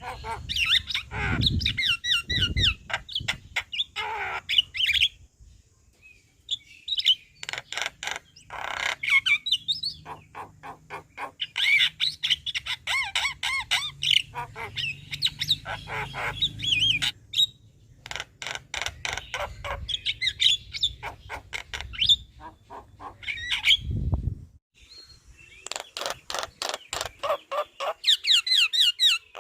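Javan myna (jalak kebo) chattering and singing, with rapid clicking runs and wavering whistles in bouts broken by short pauses. A few low thumps come through under the song about a second in, again near the two-second mark and again near the end.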